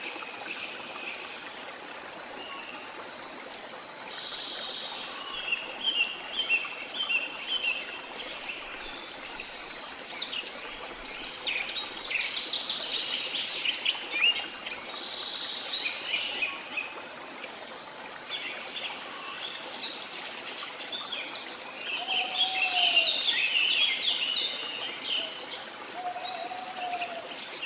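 Steady running water from a rainforest waterfall, with many birds chirping and singing over it in busy bouts. Two short lower calls come near the end.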